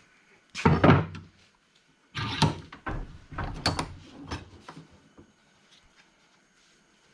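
Heavy clunks and knocks of a steel lawnmower blade and a bench vise being handled: one loud clunk about a second in, then a run of several knocks and scrapes, dying away about five seconds in.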